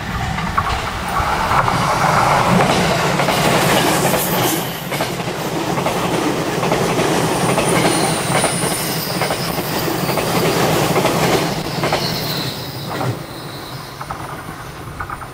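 E257 series electric limited express train passing close at speed, its wheels running loudly on the rails with clacks over the rail joints. The noise holds for about eleven seconds, then fades as the train draws away.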